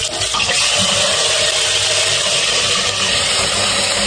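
Steady sizzling hiss of liver and onions frying in a pot.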